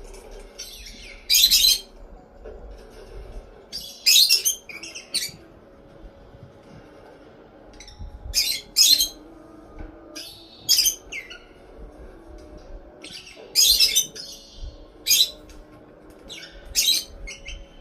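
Pet parrot giving short, sharp, loud squawks, singly and in pairs, every one to three seconds.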